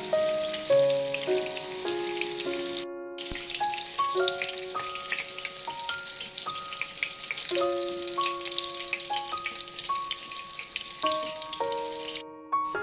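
Tofu pieces frying in hot oil in a pan: a steady crackling sizzle. Background music of held notes plays over it, cut off twice by brief silences, about three seconds in and near the end.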